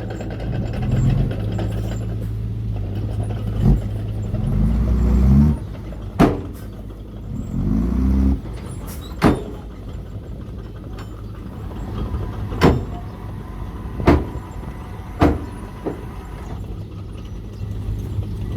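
Remote-control model dump trucks and bulldozer running: a steady low engine hum that revs up three times in the first half, with several sharp clacks scattered throughout.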